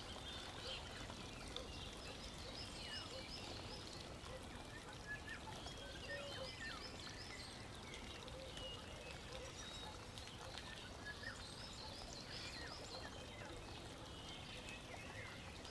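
Faint bird chirps, a short twittering phrase recurring every few seconds, over a steady low hiss.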